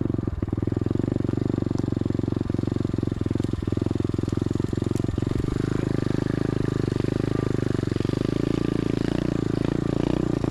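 SSR 125 automatic pit bike's small single-cylinder four-stroke engine running steadily while being ridden, with a fast even exhaust pulse that shifts a little in pitch partway through.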